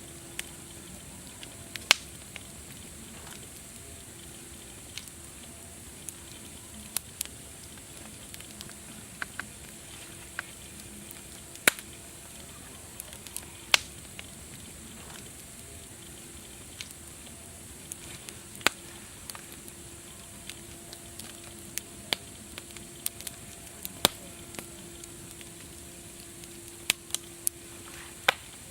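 Wood fire crackling: irregular sharp pops and snaps, a few every couple of seconds, over a steady soft hiss.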